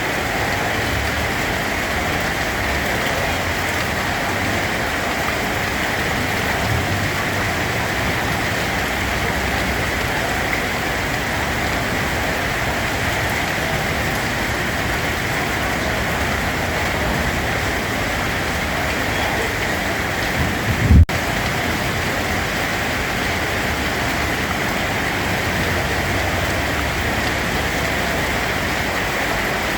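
Steady rain falling as an even hiss, with one brief low thump about two-thirds of the way through.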